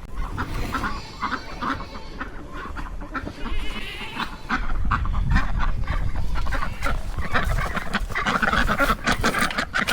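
Loud truck engine running with a rough, uneven exhaust note, growing louder about halfway through.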